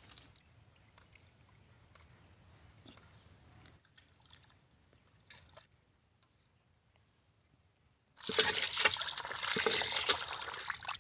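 Water pouring and splashing, starting suddenly about eight seconds in after several seconds of near silence broken only by a few faint clicks.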